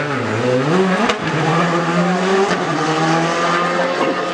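Rally car engine under hard load. Its note dips and then climbs sharply in the first second, then holds high and creeps up, with a single sharp crack about a second in.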